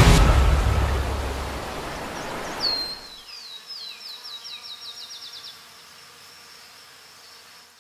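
The music's last chord rings out and fades over the first few seconds. Then a bird sings a run of high, descending whistled notes that come faster and faster, over a faint steady outdoor hiss.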